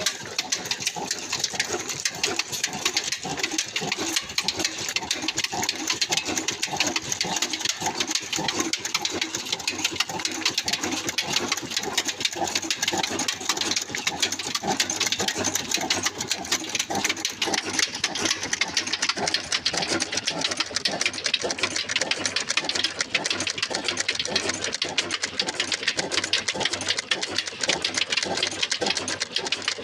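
Old desi diesel engine driving a flour mill (aata chakki), running steadily with a fast, even mechanical clatter.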